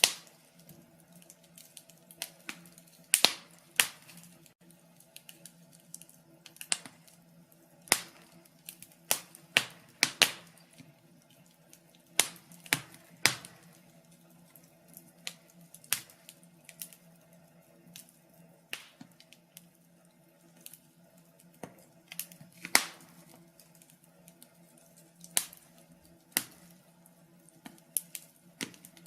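Wood fire in a fireplace crackling: irregular sharp pops and snaps of uneven loudness, about one or two a second with short lulls between.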